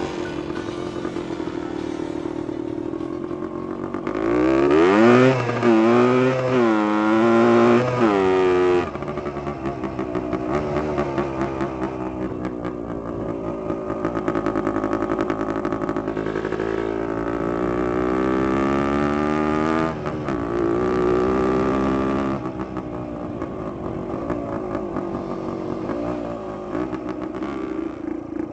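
Dirt bike engine revving, its pitch climbing and dropping again and again as it runs up through the revs, loudest between about four and nine seconds in.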